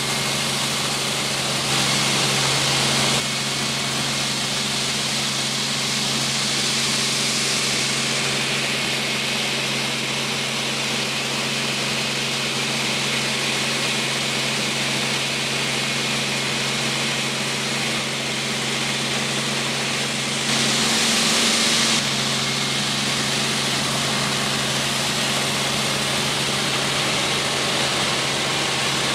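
Helicopter running steadily: a constant engine and rotor drone with a hiss over it. It gets briefly louder about two seconds in and again around twenty seconds in.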